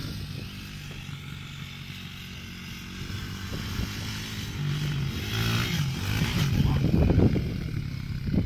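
Dirt bike engine running steadily, then revving and growing louder over the last few seconds.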